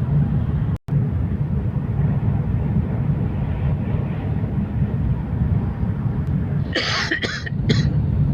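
Steady low rumble of a high-speed electric train running, heard inside the passenger cabin. The sound cuts out for a split second just under a second in. A short human vocal sound, like a cough, comes near the end.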